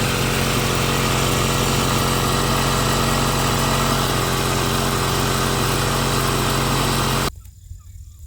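Small boat outboard motor running steadily, stopping abruptly near the end.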